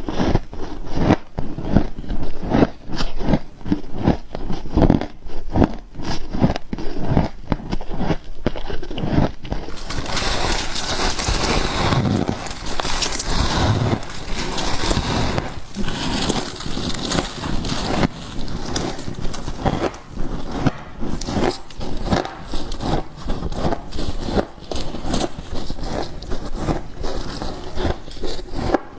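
Close-miked crunching and chewing of freezer frost ice: a dense run of short, crisp crunches several times a second. About a third of the way in the sound turns brighter and hissier.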